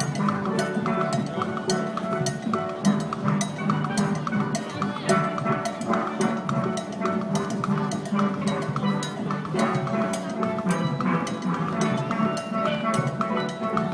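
Band music: held pitched notes over drums keeping a steady beat.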